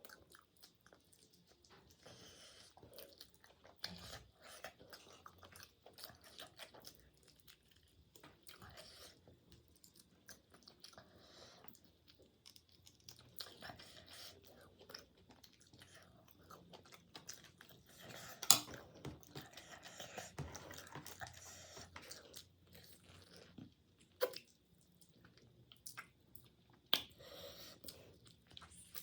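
Close-up chewing and crunching of food, with wet mouth sounds and a few sharper crunches or clicks, the loudest about two-thirds of the way through.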